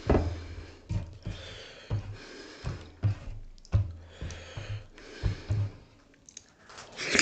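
Close-miked chewing of soft dhido with sisnu: wet mouth clicks and smacks about every half second, with a louder breathy sound near the end.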